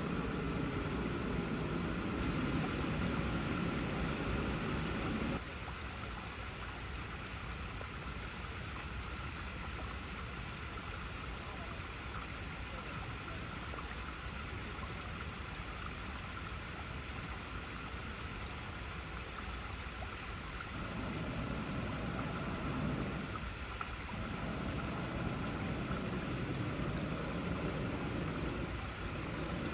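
Water flowing over icy rocks, a steady rushing and babbling. A deeper rumble under it cuts out suddenly about five seconds in and comes back about two-thirds of the way through.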